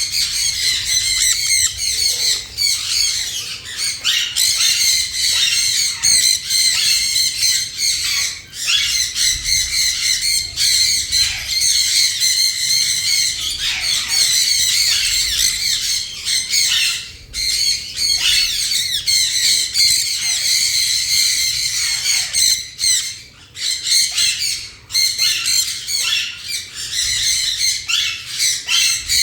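Jenday conures squawking almost without pause, a dense stream of harsh, high-pitched calls with only brief gaps.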